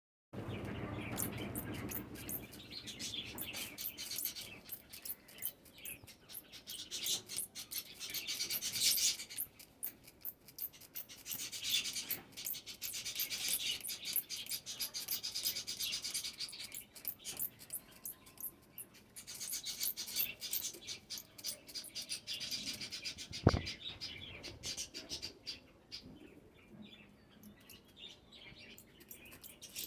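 Java sparrows bathing: rapid fine splashing and fluttering in water, with chirps, in spells that come and go and thin out over the last few seconds. One sharp knock about two-thirds of the way through.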